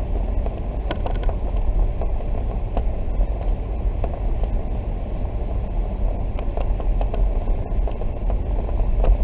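Cabin road noise of a four-wheel-drive Jeep driving on a snow-covered road: a steady low rumble of engine and tyres, with faint scattered clicks.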